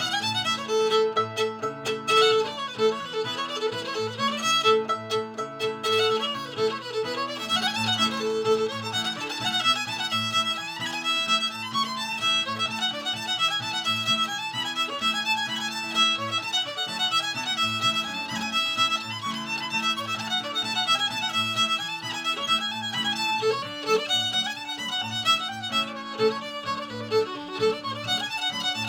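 Solo fiddle playing a lively old-time fiddle tune, with a drone string sounding under the melody.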